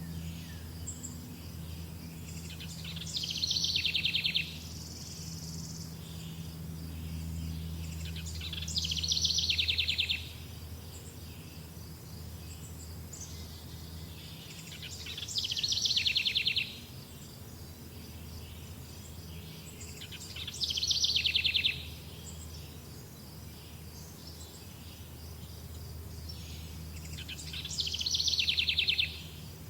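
A songbird repeating a short, fast trill that falls in pitch, five times about every six seconds. Under it runs a steady high insect chirring and a low rumble.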